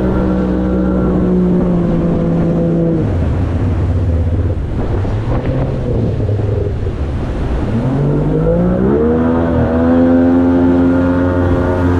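Outboard motor of an inflatable jet boat running under way. It is throttled back about three seconds in, runs low for a few seconds, then revs back up and holds at a higher pitch than before.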